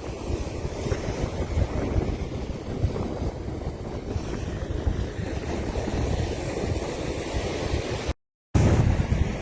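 Strong 20 to 30 mph wind buffeting the microphone in gusts, with ocean surf rushing underneath. The sound cuts out completely for a moment near the end, then returns louder.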